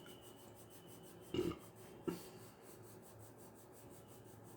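Faint rasping and rubbing of a grey colour being shaded onto paper in long strokes, with two short louder scrapes about a second and a half and two seconds in.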